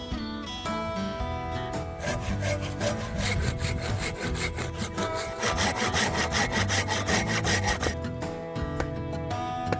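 Hand saw cutting through wood in quick, even back-and-forth strokes that start about two seconds in and stop near the end, over background music.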